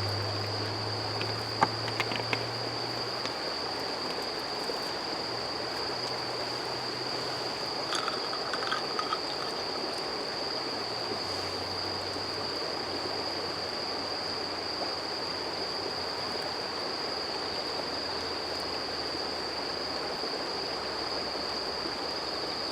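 Steady rushing of a stream, with an insect trilling on one constant high pitch over it. A few light clicks come about two seconds and eight seconds in.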